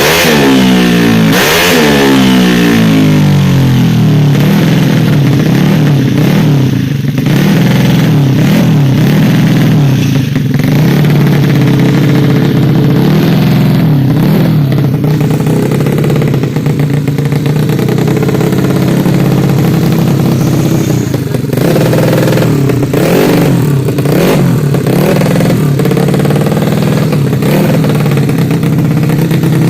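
Tuned 150 cc automatic scooter engine revved once about a second and a half in, its pitch falling back to a steady idle, then held at idle with several short throttle blips.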